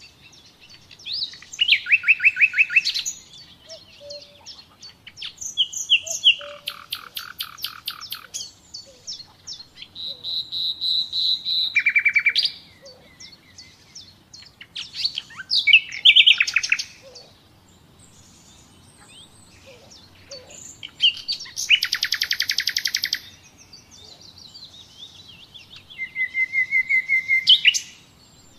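Common nightingale singing: about half a dozen separate phrases, each a second or two of rapid repeated notes and whistles, with short pauses between them.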